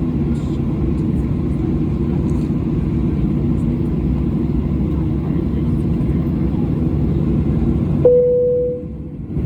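Steady rumble of jet airliner cabin noise. About eight seconds in, a single cabin chime rings and fades, and the background noise briefly drops away.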